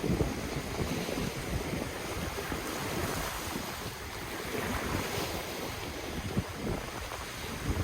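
Ocean waves washing steadily on the shore, with wind buffeting the microphone in uneven low gusts.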